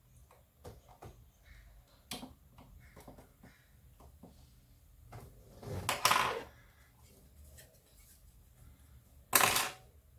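Scattered small clicks and taps of hands handling the plastic parts of a power-supply cooling fan while taking it apart, with two louder scraping rustles, one about six seconds in and one near the end.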